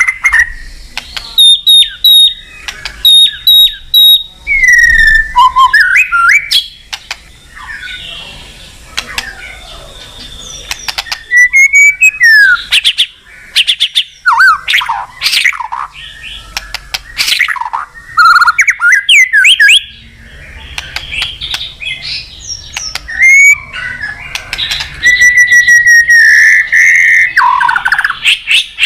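White-rumped shama singing a loud, varied song of sweeping whistles and rapid repeated chips, with short gaps between phrases and a longer held whistle near the end.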